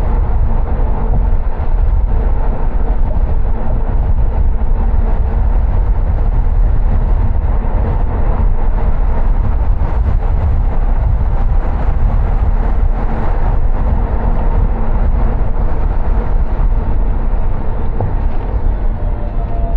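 A car driving: steady road and engine rumble, deepest at the low end, with a faint steady hum.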